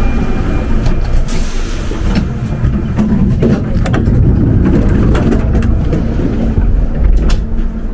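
Train running: a loud, steady low rumble with a constant hum and scattered clicks and knocks.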